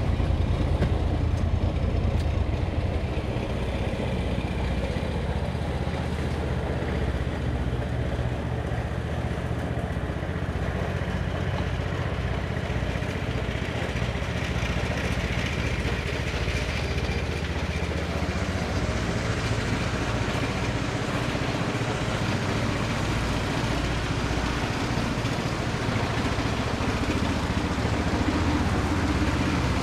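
An engine running steadily throughout, its low hum a little louder at the start and again near the end.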